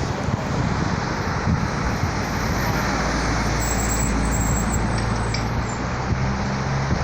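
Steady noise of a car on the move, with a rushing haze of road and wind noise and a low engine hum that grows stronger about three seconds in.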